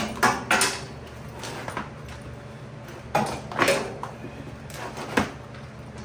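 A few separate knocks and clatters of metal parts and tools being handled while the go-kart engine is taken out: two near the start, a cluster around the middle and one near the end.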